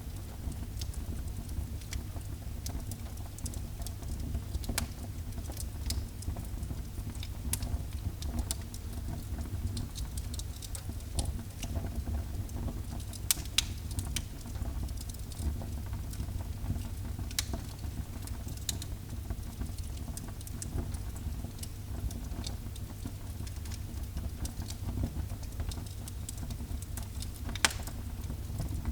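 Wood fire crackling in a fireplace: scattered small pops over a low steady rumble, with a few sharper pops around the middle and one near the end.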